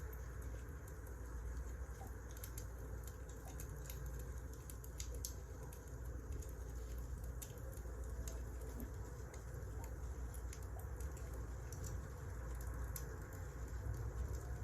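Wood fire in a fireplace crackling, with frequent small irregular pops and snaps over a steady low rumble of the flames.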